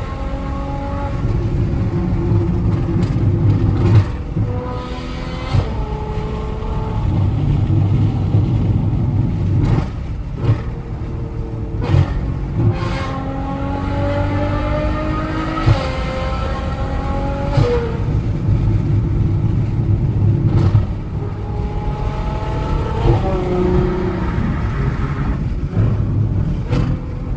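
Straight-piped Ferrari 812 Superfast's 6.5-litre V12 pulling hard through the gears: the engine note climbs in pitch on each run, then drops back at each upshift, several times over. Several sharp cracks come through along the way.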